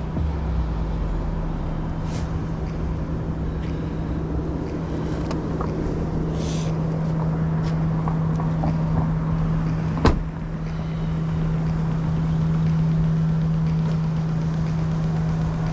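Car running, heard from inside the cabin: a steady drone with a constant low hum. A single sharp knock comes about ten seconds in.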